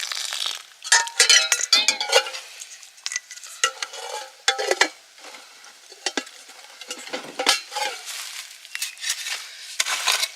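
Metal cookware and utensils clinking and scraping together in irregular clusters, the strikes ringing briefly.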